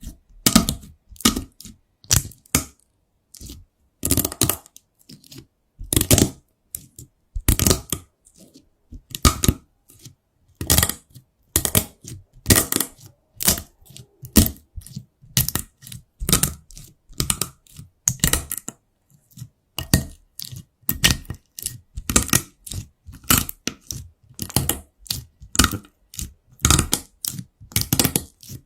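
Slime being squeezed and pressed by hand, giving short crackling, popping bursts at an uneven pace of one to two a second.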